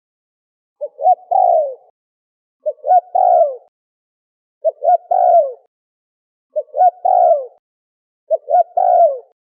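Spotted dove (terkukur) cooing: five calls about two seconds apart, each two short notes followed by a longer coo that falls in pitch.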